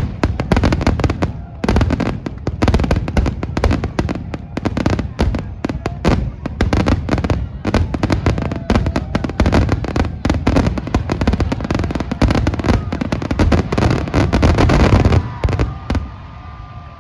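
Fireworks finale barrage: a dense, continuous volley of shell bursts and crackling bangs that stops abruptly about 15 seconds in, leaving crowd cheering and whistles.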